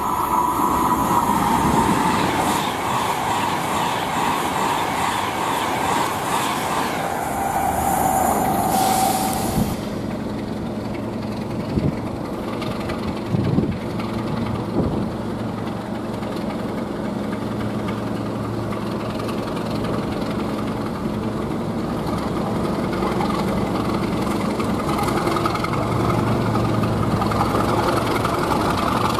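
A Class 390 Pendolino electric train passing at speed, a rush of noise with a high whine. About ten seconds in it gives way to the steady low drone of a Class 37 diesel locomotive's English Electric V12 engine, with a few knocks, running as it prepares to depart.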